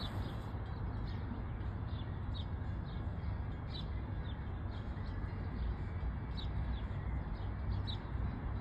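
A small bird chirping over and over, short downward-sliding chirps about once a second, over a steady low rumble.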